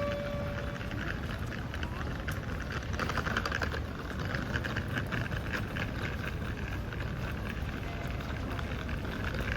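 Steady background noise of a busy railway station, with a low rumble, many faint short ticks and scattered indistinct voices; a brief beep-like tone sounds right at the start.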